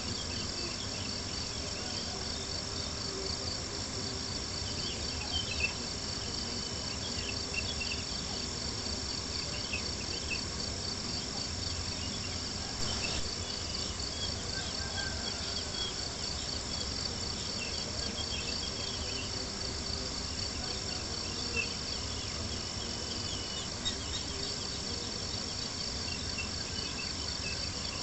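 Crickets chirping in a steady, fast pulsing trill, with a few soft pops from a crackling campfire.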